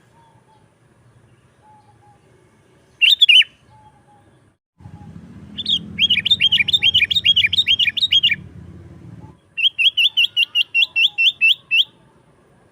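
Sooty-headed bulbul calling: one short call about three seconds in, then two fast runs of repeated chattering notes, about five or six a second, each run lasting two to three seconds. A low rumble sits under the first run.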